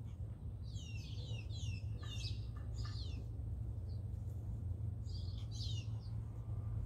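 Small songbird chirping in two quick runs of short, high, falling notes, the first from under a second in to about three seconds, the second around five to six seconds, over a steady low hum.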